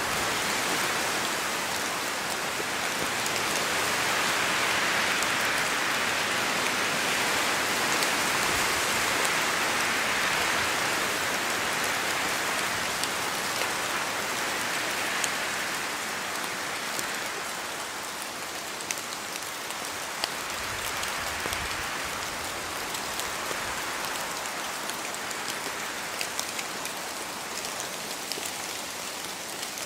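Steady rain falling through a spruce forest, with wind in the trees making the hiss swell and ease, and scattered single drops falling from the branches. The hiss is loudest in the first half and eases after about 17 s.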